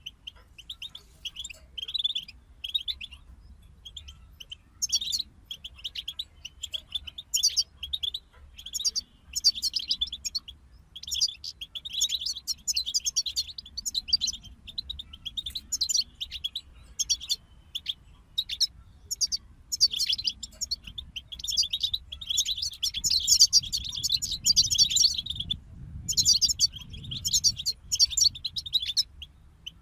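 European goldfinches singing: rapid twittering phrases in runs separated by short breaks.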